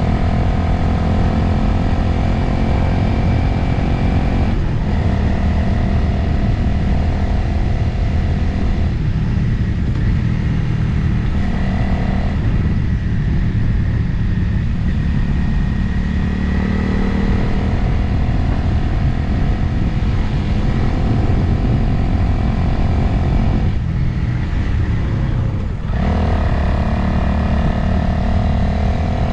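Motorcycle engine running under way with wind noise, the engine note shifting as the throttle changes. The engine eases off about two thirds of the way through, then picks up again with a rising pitch near the end.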